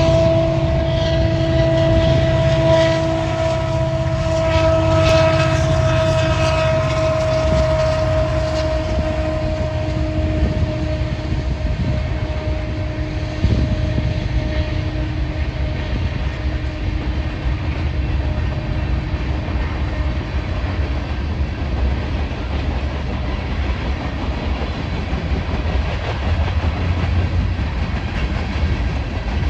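Loaded freight train of tank cars passing on the rails: a steady low rumble and clatter of wheels, with a sustained horn chord over it that slowly fades and sinks slightly in pitch during roughly the first fifteen seconds as the lead locomotive moves away.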